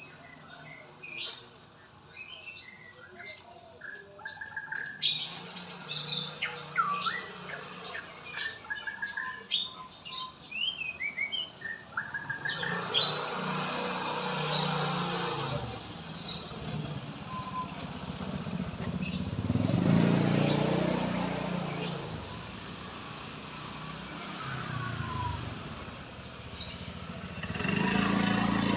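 Murai batu (white-rumped shama) singing a varied run of short whistles and chirps. From about twelve seconds in, passing road traffic rises under the song, swelling as vehicles go by two or three times.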